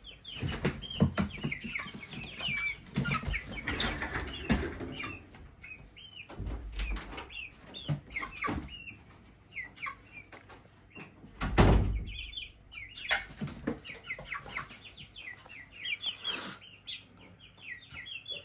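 Young chickens peeping in many short, high chirps, with some clucking. Scattered knocks and scratches come from the birds moving about the bin, and a louder thump comes about twelve seconds in.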